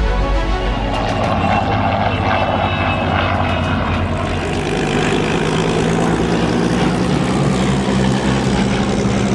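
Propeller aircraft engine running with a steady drone.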